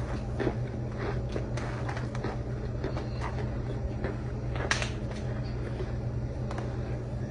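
Chewing and crunching on chunks of packed cornstarch: a string of short, irregular crunches, the loudest about four and a half seconds in. A steady low hum runs underneath.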